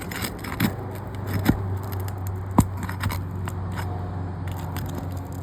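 Scraping and a few sharp clicks as white 3-tab asphalt shingles are lifted and worked loose at their nails, over a steady low hum.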